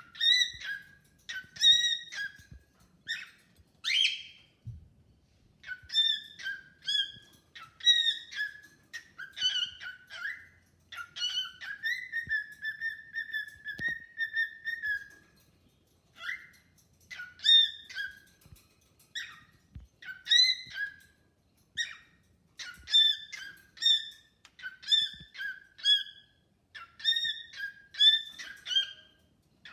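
Cockatiel whistling its song: short whistled phrases repeated over and over with brief pauses, with one longer held note about twelve seconds in.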